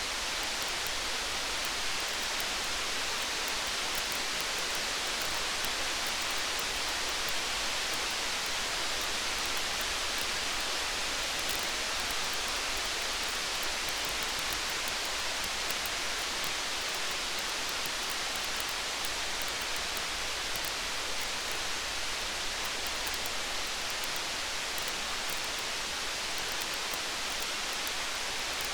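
Steady rain falling, an even hiss with no let-up, with faint small crackles scattered all through it.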